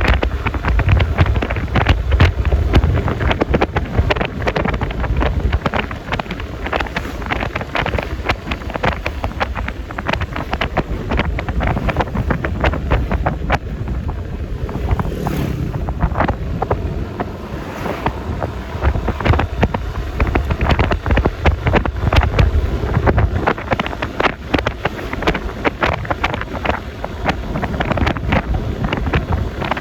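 Wind buffeting the microphone on a moving Yamaha Lexi LX 155 S scooter, with a steady rumble of road and engine noise.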